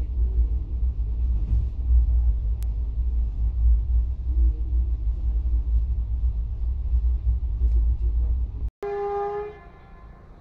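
Steady low rumble of a Garib Rath Express passenger coach running at speed, heard from inside at the window. It breaks off abruptly nearly nine seconds in, and a single short horn blast of about half a second follows.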